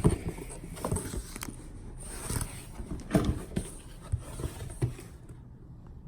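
Plastic parts of a cool-mist humidifier being handled, with irregular clicks, knocks and rustles that die down about five seconds in.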